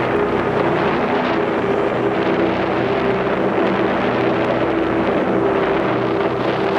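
Strong gusty wind and blowing rain from a thunderstorm, a steady rushing noise with wind buffeting the microphone. A few low steady tones hum underneath.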